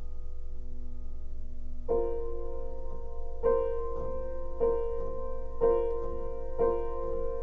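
Piano played slowly: a held chord, then a chord struck about once a second, each ringing out, over a steady low hum.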